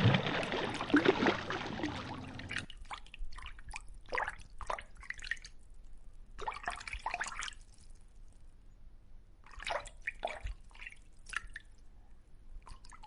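Water splashing for about the first two and a half seconds, then irregular small drips and splashes.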